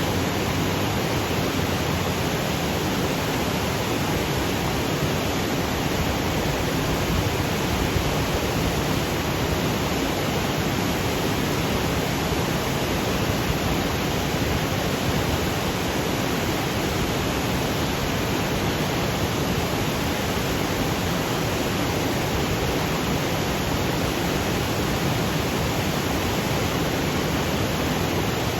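Waterfall cascading over granite boulders: a steady, unbroken rush of falling water.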